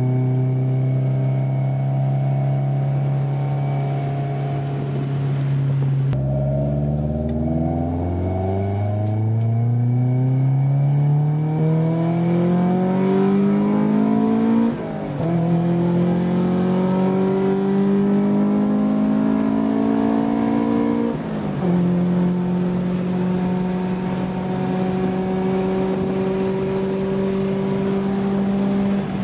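Swapped Honda B16A2 1.6-litre VTEC four-cylinder in a Civic, running through a cheap aftermarket eBay exhaust. It holds steady revs, then climbs in revs through a gear for several seconds, drops with a short dip in loudness at a gear change about halfway, and runs steadier again with another brief dip about three quarters in.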